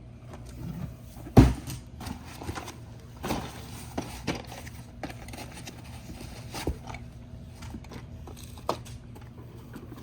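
Box and packaging handled during unboxing: irregular knocks and rustles as the contents are lifted out, with one sharp thump about a second and a half in.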